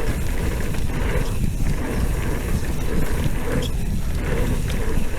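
Mountain bike rolling down a dirt trail: a steady rush of wind on the microphone with rumble and rattle from the tyres and bike over the ground.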